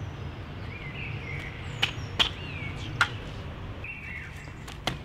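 Birds chirping in short rising-and-falling calls over a steady low outdoor hum, with a few sharp taps, the loudest about two and three seconds in.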